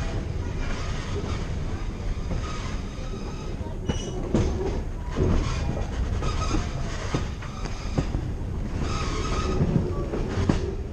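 Train cars rolling slowly over track with a steady rumble. The wheels squeal briefly twice, and there are a few clacks and knocks over the rail joints about four to five seconds in.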